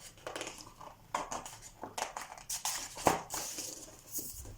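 Light rustling and small clicks of paper being handled as the pages of a picture book are turned, with one sharper click about three seconds in.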